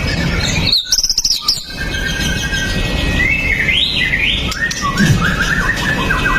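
White-rumped shama singing: a fast run of sweeping whistled notes about a second in, then further quick phrases of rising and falling notes.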